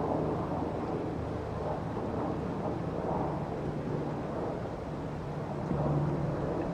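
A boat engine's steady low drone under wind buffeting the microphone.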